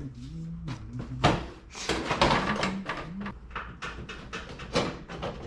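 Clatter and scraping of car intake parts being handled and test-fitted, with several sharp knocks. A low voice hums a tune through the first half.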